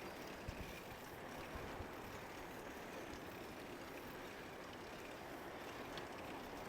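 Faint, steady outdoor background noise with a few soft ticks.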